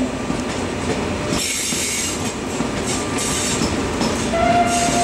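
Train rolling slowly through the station, its wheels clicking over rail joints. A thin wheel squeal rises in the last second.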